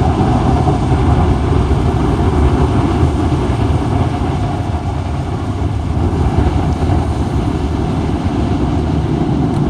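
Automatic car wash air dryer blowers running, a steady loud rush of air heard from inside the car.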